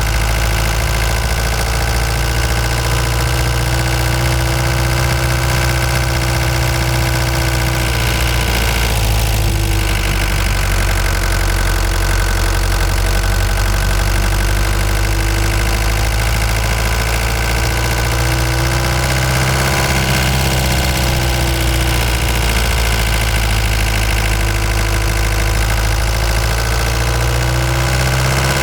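Ford Transit Mk5 van's engine running on the move, with a steady drone whose pitch dips and recovers twice as the engine speed changes and rises near the end.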